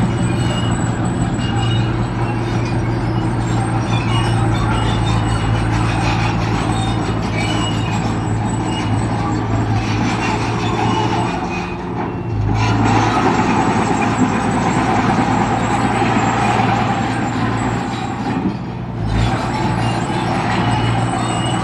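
Heavy diesel engine of earthmoving equipment running steadily. About twelve seconds in the sound changes abruptly to a louder, rougher stretch, which drops back a few seconds before the end.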